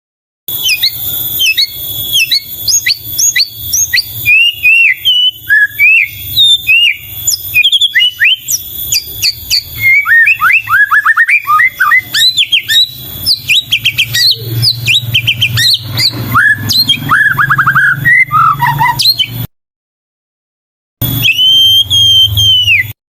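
White-rumped shama (murai batu) singing a fast, varied song of rising and falling whistled notes and rapid chirp runs. The song breaks off briefly about three-quarters of the way through, then returns as one long, wavering held whistle near the end.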